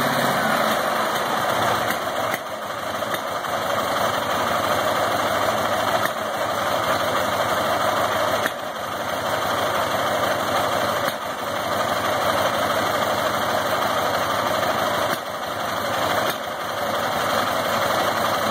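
Ural IMZ-8.103 flat-twin motorcycle engine idling, its steady note stumbling and breaking briefly every few seconds. This is the popping back into the carburettor at idle that the owner puts down to mismatched valve-timing marks.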